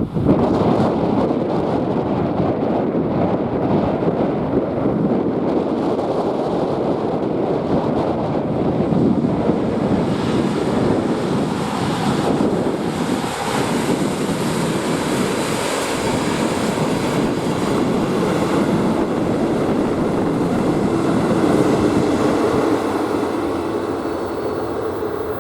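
A train passing at close range: a loud, steady rolling rumble of wheels on rails that starts abruptly and eases off near the end.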